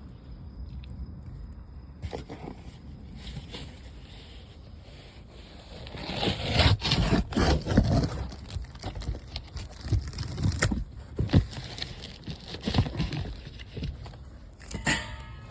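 A cardboard and paper fire burning, with a low steady rush and irregular crackles and scrapes that grow much louder and denser about six seconds in.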